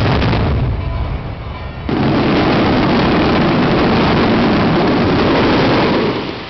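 Loud daytime aerial fireworks: a sharp bang at the start, then about two seconds in a dense, rapid barrage of bursts that runs for about four seconds and dies away near the end.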